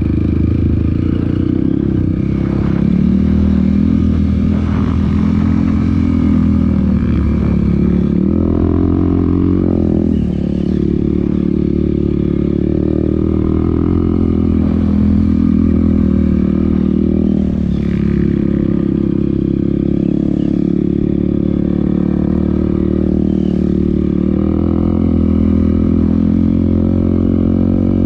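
Off-road motorcycle engine running on a trail ride, its revs rising and falling with the throttle, with short dips about ten seconds in and again near eighteen seconds.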